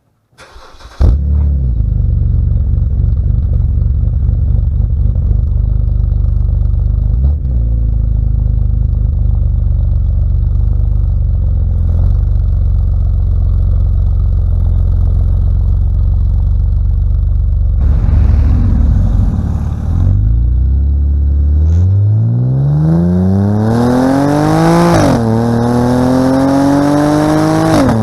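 2011 BMW Z4 3.0i's straight-six running through a Remus sport exhaust with the secondary catalytic converters deleted. It holds a steady low drone at first, then revs climb hard under acceleration, with a sharp drop at an upshift and another climb before a second shift.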